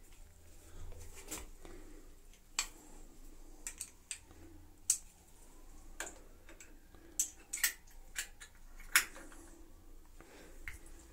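Irregular sharp clicks and light taps of small hard parts being handled during cabinet and towel-rack mounting, about a dozen spread unevenly, the loudest about nine seconds in.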